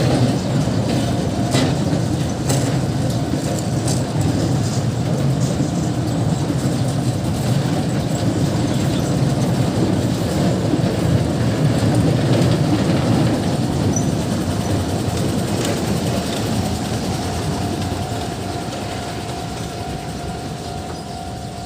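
Narrow-gauge sugar railway train passing slowly over a level crossing: a steady rumble with the wheels clicking over rail joints, fading away in the last few seconds as a thin steady tone comes in.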